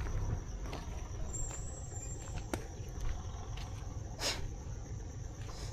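Rural roadside ambience: a low steady rumble with a faint steady high tone and a few scattered clicks, the loudest about four seconds in.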